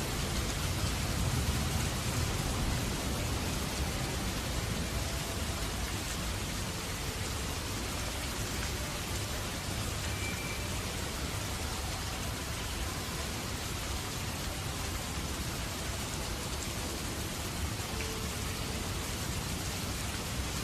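Steady rain falling, an even hiss of drops, with a low thunder rumble easing off over the first few seconds.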